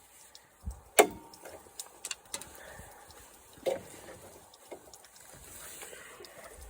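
Scattered clicks and knocks from parts of a lawn mower being handled and pulled at by hand, the sharpest knock about a second in.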